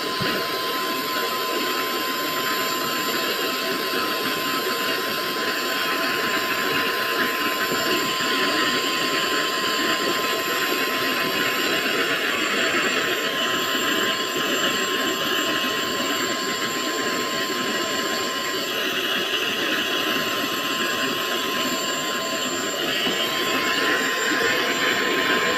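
Lotus vacuum cleaner running steadily while cleaning a car interior: a constant rushing of air with a thin, steady high whine from the motor. The rushing swells a little now and then.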